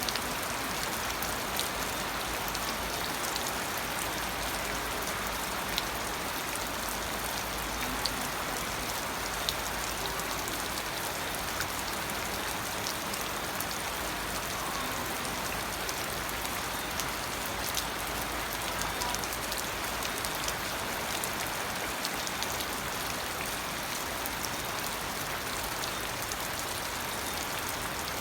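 Steady rain falling, an even hiss with scattered sharper drips and ticks of drops striking a surface.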